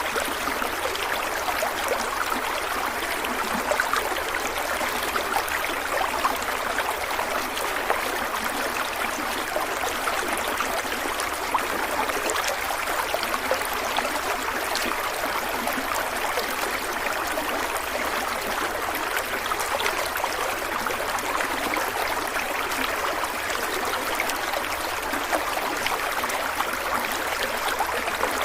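Stream water flowing and splashing steadily over rocks, an even rushing with many small bright splashes and gurgles.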